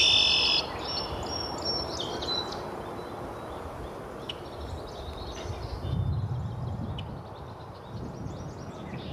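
Birds chirping and calling, the loudest a clear high call in the first half-second, with scattered short chirps after it. Under them runs a low outdoor rumble that swells for a moment about two-thirds of the way through.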